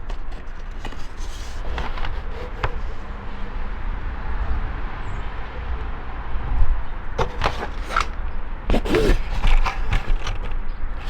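Hard plastic dashboard trim, the instrument surround pieces, being handled and set down: scattered light knocks and scrapes, busiest near the end, over a steady low rumble.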